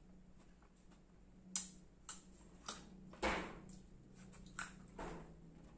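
Close-miked eating sounds: chewing crunchy unripe Indian mango, with about six short, sharp crunches and mouth smacks, the loudest a little past halfway.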